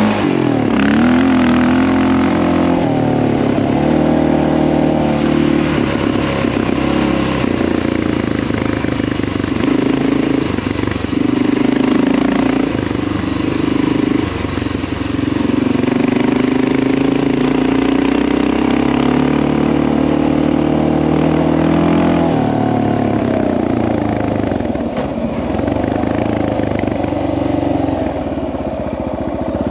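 Honda XR650L's single-cylinder four-stroke engine running while the bike is ridden, its pitch rising and falling repeatedly with throttle and gear changes.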